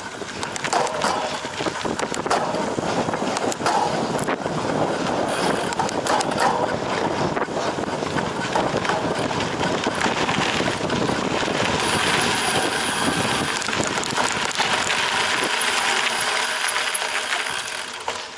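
Cyclocross bike ridden over a rough off-road course: steady tyre noise on dirt and gravel with constant small rattles and clicks from the bike.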